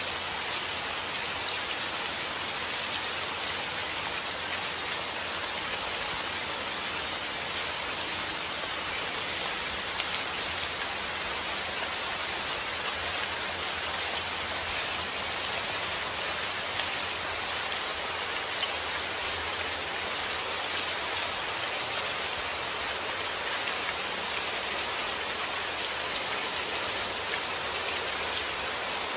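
Steady rain falling: a dense, even hiss of drops hitting a surface, with scattered sharper drop ticks.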